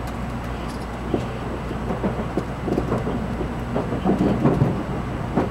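Inside a Shinkansen car while the train runs: a steady low rumble, with a scatter of short clicks and knocks that come thickest in the second half.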